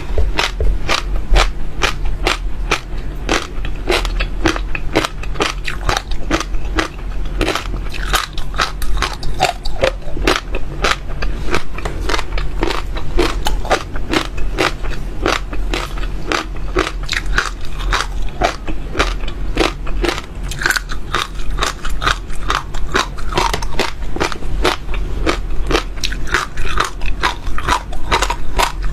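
Small seeds being bitten and crunched between the teeth, a quick run of sharp crackling cracks several times a second without a break.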